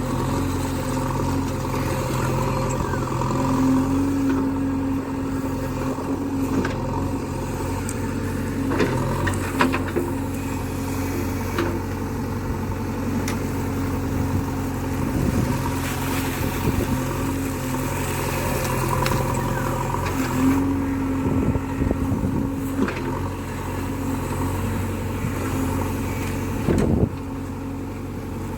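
JCB backhoe's diesel engine running under load while it digs, its note swelling and easing as the hydraulics work, with several sharp knocks and clanks along the way.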